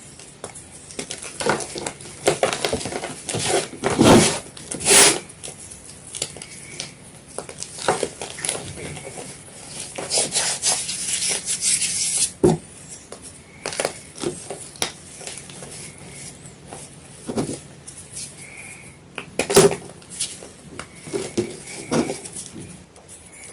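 White gym chalk being crunched and crushed: irregular cracks and crumbling, with a denser run of crumbling about ten to twelve seconds in.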